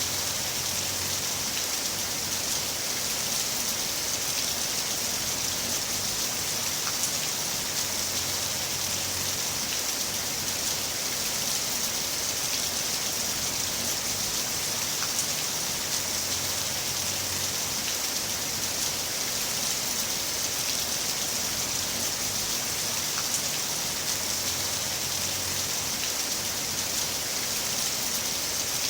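Heavy rain falling steadily: a dense, even hiss of rain on surfaces, with scattered individual drop ticks.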